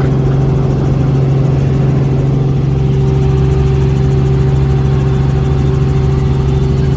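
Helicopter engine and rotors running, a loud steady drone with a low hum, heard from inside the cabin.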